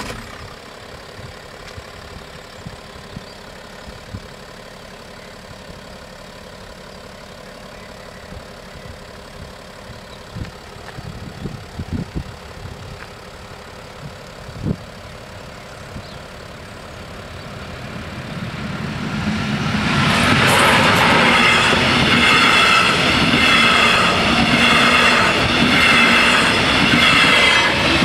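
Double-deck regional electric train approaching and passing over a level crossing: the sound swells from about 17 seconds in and becomes a loud, steady rumble of wheels on rails with a regular clatter of the wheelsets from about 20 seconds in. Before that, a steady background with a few low thumps.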